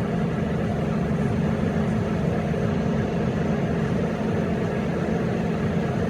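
Heavy diesel engine running steadily, a low even hum.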